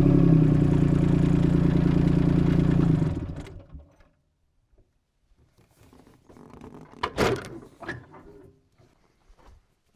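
The mini excavator's Yanmar three-cylinder diesel idles steadily, then shuts off about three seconds in and runs down to a stop. A few light knocks and rustles follow, the loudest about seven seconds in.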